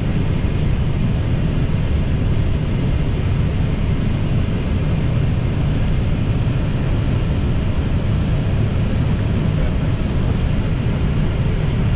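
Steady low rumble inside an Airbus A320 cockpit as the jet taxis after landing, with its engines at idle.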